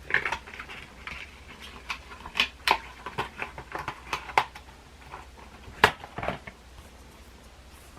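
Makeup products and their packaging being handled: scattered light clicks, taps and rustles, with one sharper click about six seconds in.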